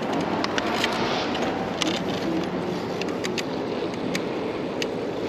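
Steady road and traffic noise heard while riding a bicycle through city streets, with scattered sharp clicks and rattles throughout.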